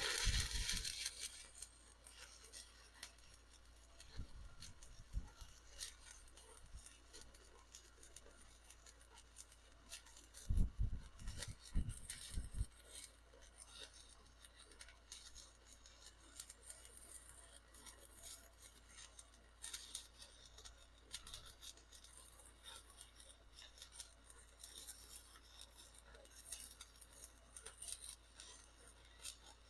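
Stick welding arc crackling steadily as an electrode runs a bead, with a cluster of louder knocks about ten seconds in.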